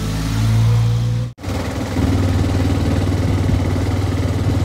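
Motorcycle engine revving up briefly, then, after an abrupt cut, running steadily under way with a fast, even pulse.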